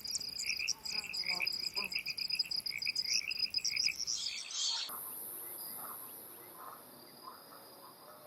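Wetland chorus of many small creatures making short, rapidly repeated high calls. Just before five seconds in it cuts to a different recording: a steady high insect-like buzz with a few faint chirps.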